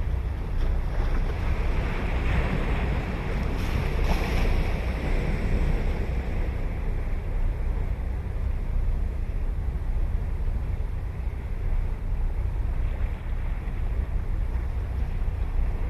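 Ocean surf: a wave breaks and washes in a few seconds in, its hiss swelling and then fading, with a smaller wash near the end. A steady low rumble of wind on the microphone lies under it.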